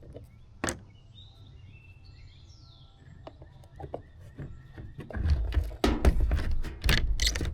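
Handling noises from bench work: a sharp click about a second in, then a run of clattering knocks and rustling over the last two and a half seconds. Faint bird chirps in the background.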